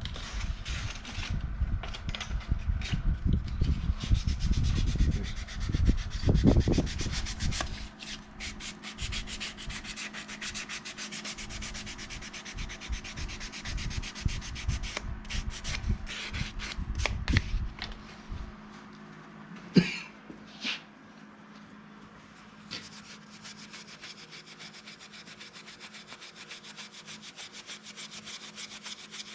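Hand sanding a wooden spoon with sandpaper to smooth its shape: quick, irregular back-and-forth scratchy rubbing strokes. About 18 seconds in the sanding stops, leaving quiet with a couple of light knocks.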